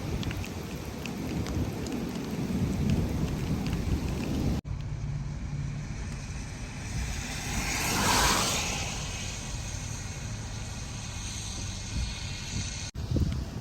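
Heavy rain and wind of a severe thunderstorm squall line around a vehicle driving on the interstate, with drops ticking and a low rumble. The sound changes abruptly about four and a half seconds in and again near the end; in between, a rush of noise swells and fades about eight seconds in.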